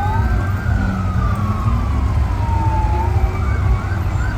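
Several wailing sirens overlapping at different pitches, slowly falling and rising, over a steady low rumble of passing trucks.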